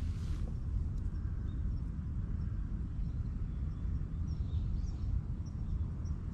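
Outdoor ambience: a steady low rumble with faint, short bird chirps scattered high above it.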